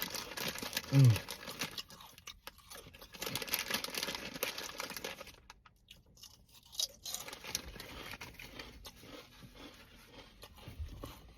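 Close-up eating sounds: crunchy chewing and crinkling, dense for the first half and sparser after, with a brief vocal hum about a second in.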